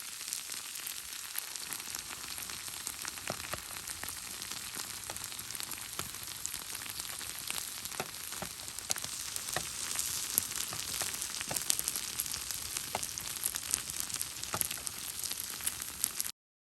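Pork kimchi sizzling in a pan over a campfire: a steady frying hiss with frequent sharp pops and crackles, cutting off suddenly near the end.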